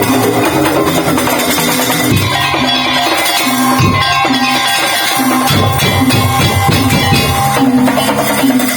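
Madurese daul (tong-tong) ensemble playing a song: driving drum and percussion rhythm with bell-like strikes under a held melody line.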